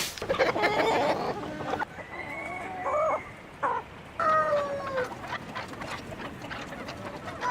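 Chickens clucking and calling: a run of short clucks in the first two seconds, then scattered calls, including a longer call that falls in pitch about four seconds in.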